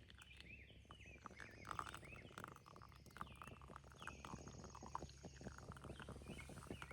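Small birds chirping, with quick short calls throughout, over a run of soft clicks and taps that starts about a second and a half in.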